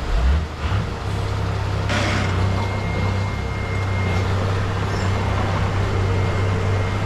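Diesel engine of heavy earthmoving machinery running steadily. There is a surge in level just after the start, then a short hiss about two seconds in, followed by a thin, high steady whine lasting about two seconds.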